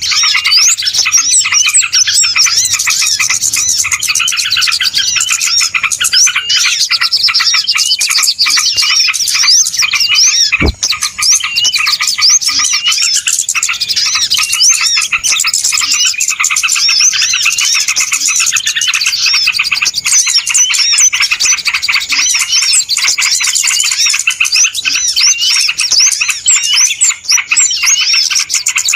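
Dense chorus of many small birds chirping and twittering without pause, a busy 'ribut' bird-lure (pikat) recording of the kind played to draw wild birds in. A single sharp click cuts in about ten seconds in.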